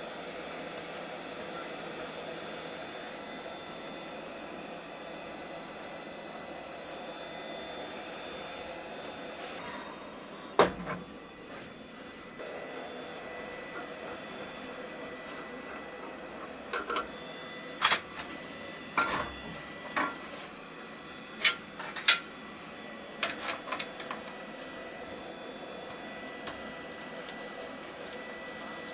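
Steady hum of a running workshop motor, with one sharp knock about ten seconds in and a quick run of about a dozen sharp clicks and knocks in the second half.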